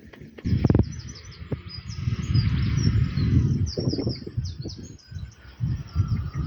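Small birds chirping in quick, repeated short calls over a loud, uneven low rumble.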